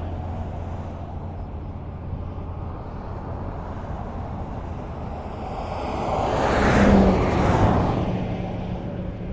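Highway traffic: a steady rumble of tyres and engines. One vehicle passes close, swelling to its loudest about seven seconds in and then fading away.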